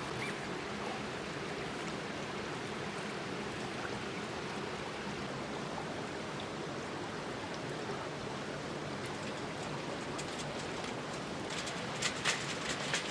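Steady rushing outdoor noise, water-like. A few light clicks come near the end.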